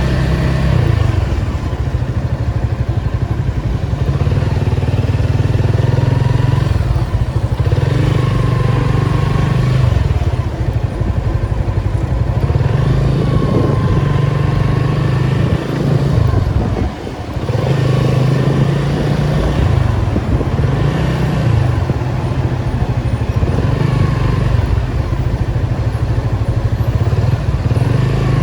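Nissan 280Z's straight-six engine under way in traffic, its note rising and falling several times as it pulls and eases off, with a brief lull about two-thirds of the way through.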